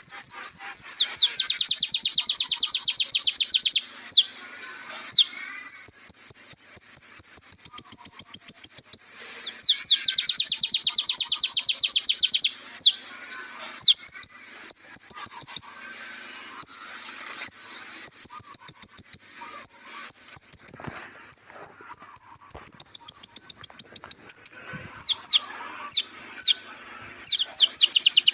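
Kolibri ninja (a sunbird) singing: long, very rapid trills of repeated high notes, each lasting a few seconds, alternating with thin, high whistled phrases and sharp downward-sweeping notes.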